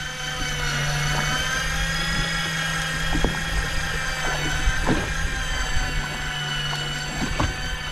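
Daiwa Seapower 800 electric fishing reel winding in line under load, hauling a hooked fish up from deep water: a steady motor and gear whine over a low hum, with a few faint ticks.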